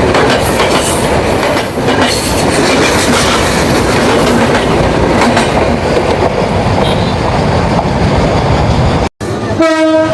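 Train passing close by: a loud, steady rush of wheels on rails with a clickety-clack. Near the end it cuts off abruptly, and a short pitched tone begins.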